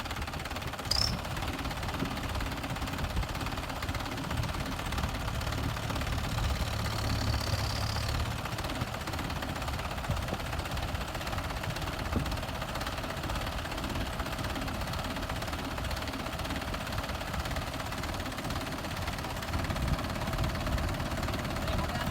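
Tractor diesel engine running steadily at idle, a little louder for a few seconds in the middle.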